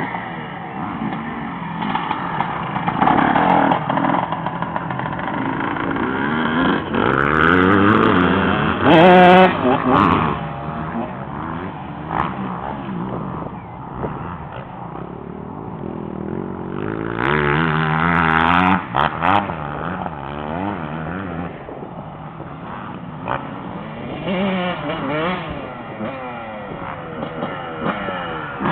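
Honda CR 125 motocross bike's two-stroke single-cylinder engine revving hard and backing off again and again, the pitch climbing and falling with each burst of throttle; the loudest runs come about nine seconds in and again around seventeen to nineteen seconds in.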